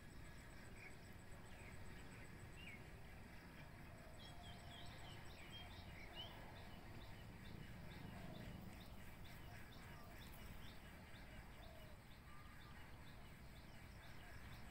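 Faint outdoor quiet with birds chirping, including a quick run of short chirps through the middle.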